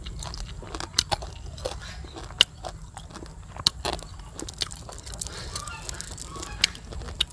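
A person biting and chewing crispy fried fish up close, with sharp crunches at irregular moments, about once every second or so.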